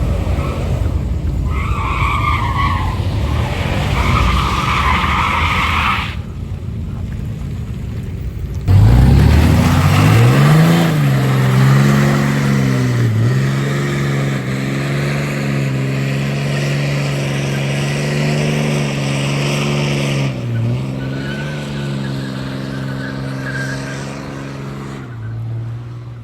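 Truck doing a burnout: tires squealing over the engine's rumble, then after a short lull the engine revs up sharply and is held at high revs with the tires spinning, dipping twice before easing off near the end.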